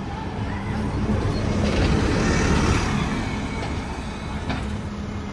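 A bus driving past, its engine and tyre noise growing louder to a peak about halfway through and then fading.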